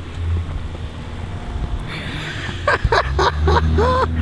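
Steady low rumble of a vehicle running, with brief voices and a short sung or hummed sound near the end.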